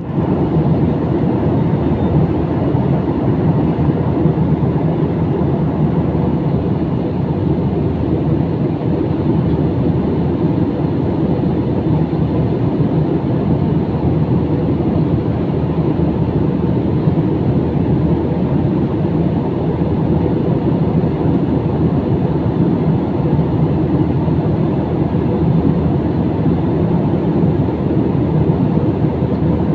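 Steady cabin noise of a jet airliner in flight: an even low rumble and rush of engines and airflow, heard from inside the cabin, with no change throughout.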